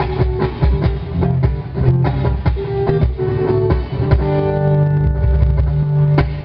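A band plays an instrumental passage with strummed guitar over a steady drum beat. About four seconds in the beat stops and the band holds one long sustained chord.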